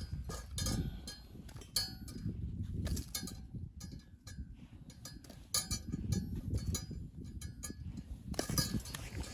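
Repeated light metallic clinks and knocks, several with a short ringing tone, over a continuous low rumble.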